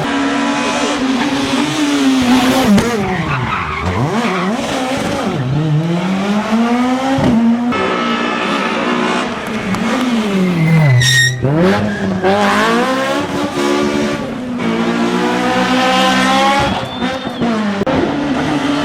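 Rally car engines revving hard at full throttle, the pitch climbing and dropping again and again through gear changes and lifts as the cars come through, with some tyre noise.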